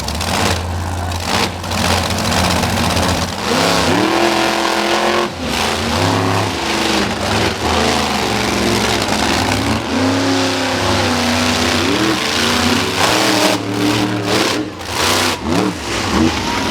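Monster truck engines revving hard through a race, the pitch rising and falling again and again as the drivers work the throttle.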